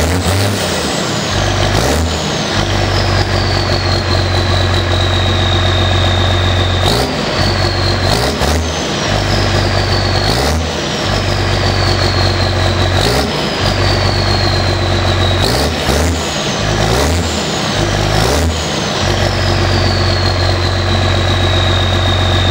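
New Holland T8030 tractor's six-cylinder turbo diesel running with no silencer on an open exhaust pipe, idling and blipped about nine times in short revs. After each blip the turbo's high whistle winds slowly down as the engine drops back to idle.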